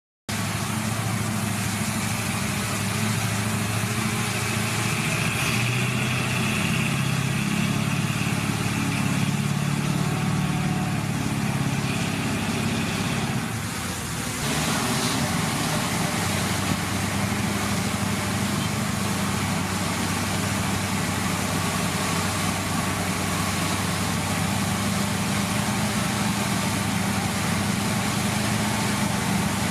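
Heavy diesel engine of earthmoving machinery running under load, its note shifting in pitch through the first half, dipping briefly a little before halfway, then settling into a steadier drone.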